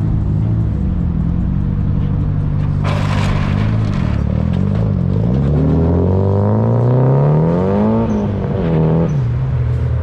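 A car engine running steadily, then revving up in a rising climb of a few seconds that drops back shortly before the end. A short burst of noise comes about three seconds in.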